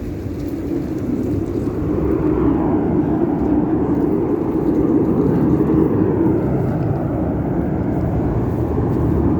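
Blue Angels F/A-18 Super Hornet jets flying by, their engine roar building about two seconds in and holding, with a faint sweep in pitch as they pass.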